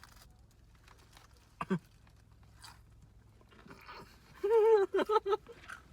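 A person's short wordless vocal sounds: a brief one about a second and a half in, then a louder wavering high-pitched sound just after four seconds, broken into a few short pulses, over faint small clicks.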